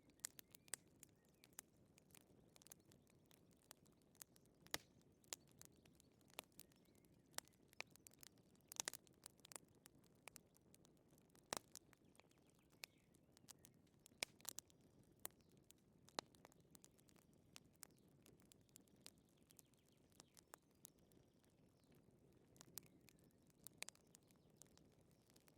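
Wood fire crackling: irregular sharp pops and snaps, some louder than others, over a faint low hiss.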